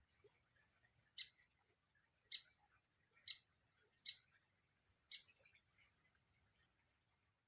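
A woodpecker giving five short, sharp single call notes, spaced about a second apart.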